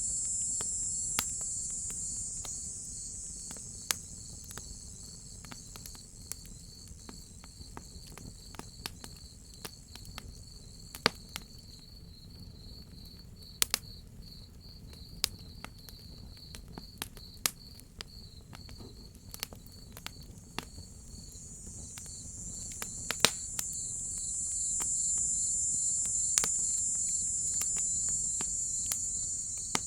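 Night insect chorus: crickets chirping in a steady pulsing trill, with a higher insect drone, cicadas, that fades away after the first few seconds and swells back up over the last third. Sharp pops and snaps of a crackling wood fire come at irregular intervals throughout.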